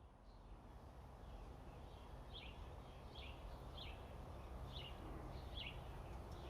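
A small bird chirping about five times, short chirps under a second apart, over faint steady outdoor background noise with a low hum.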